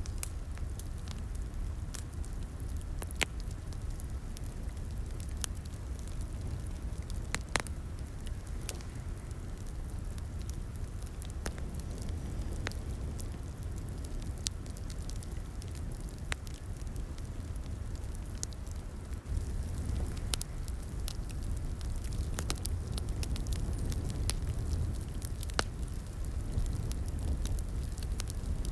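Wood fire crackling in a fireplace: irregular sharp pops and snaps over a steady low rumble of the burning fire, with the loudest pops about 3 and 7.5 seconds in.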